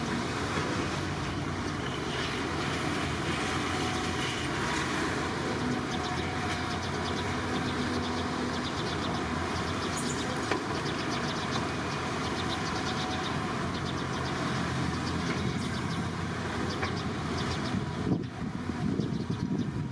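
Diesel engine of heavy construction machinery running steadily, with a sharp knock near the end followed by a more uneven sound.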